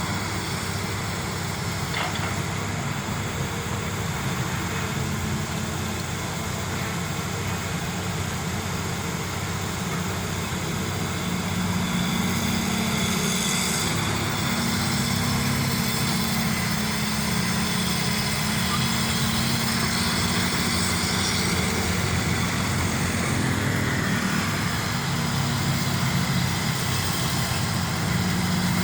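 Hydraulic excavator's diesel engine running steadily while it digs, growing a little louder partway through, with a brief drop in pitch near the end.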